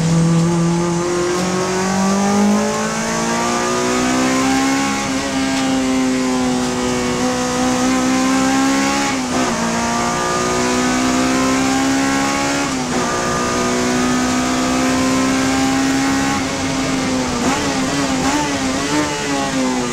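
Honda Civic Type R FD2 race car's 2.0-litre four-cylinder engine held at high revs on track, a steady high note that climbs early on. There are two brief dips in pitch about 9 and 13 seconds in, and the revs fall away near the end.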